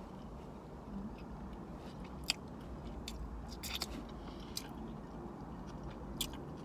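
A person chewing a mouthful of sushi roll, with a few short sharp clicks over a steady low rumble.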